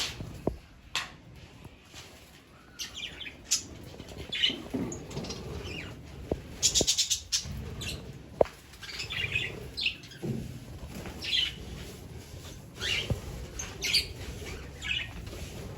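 Budgerigars chirping and chattering in short high calls, with a quick run of rapid chirps about seven seconds in.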